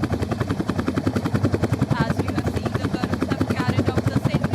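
Helicopter flying past, its rotor beating in a rapid, steady pulse.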